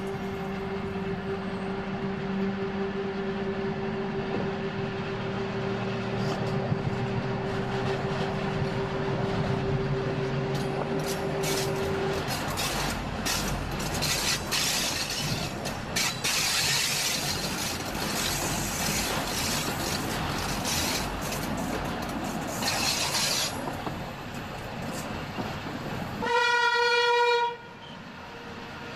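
Electric train on the Flåm Line pulling away: a steady hum at first, then wheel-on-rail rumble with rapid clicks over the track and a spell of loud hissing. About three-quarters of the way through, the train horn sounds one note for about a second.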